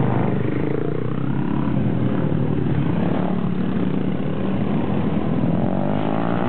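Motorcycle engines running steadily, with one engine rising in pitch near the end.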